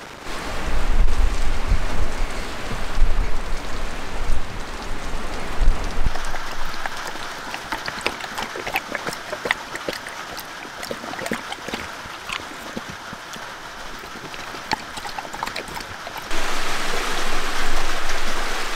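Storm rain pattering, with many scattered drop ticks, and a low rumble of wind gusts during the first six seconds. About sixteen seconds in, the sound switches abruptly to a louder, even hiss of wind.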